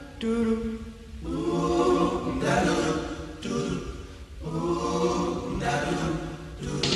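Music: layered voices singing long held chords without drums, the chord changing about every second or so.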